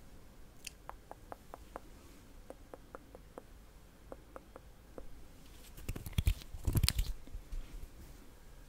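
Close-miked ASMR mouth sounds: a string of soft, sharp clicks, then a louder burst of crackling about six seconds in.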